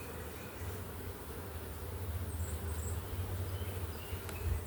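A honey bee colony humming steadily around an open hive box with its frames pulled for inspection.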